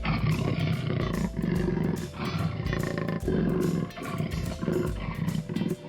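Big cat roaring and growling in repeated bursts, a jaguar sound effect, over light background music.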